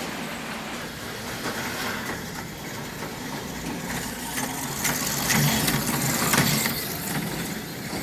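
HO scale slot cars running around the track, a steady rattling whir with a run of clicks from about five seconds in as the cars come closer.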